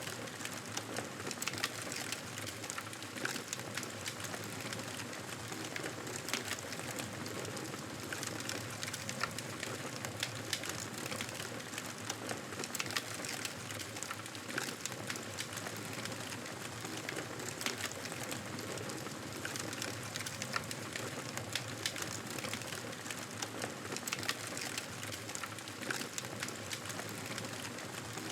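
Fireplace crackling: a steady hiss with frequent small irregular pops and snaps.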